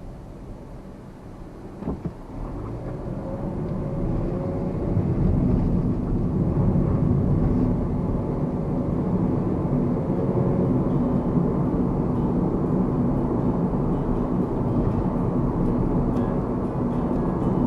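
2009 Mazda Verisa heard from inside the cabin, its 1.5-litre four-cylinder engine note rising as the car gathers speed, with a short thump about two seconds in. Road and engine noise build over the next few seconds, then hold steady at cruising speed.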